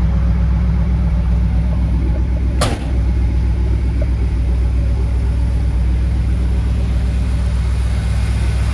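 Ford 460 big-block V8 idling steadily, with one sharp clack about two and a half seconds in.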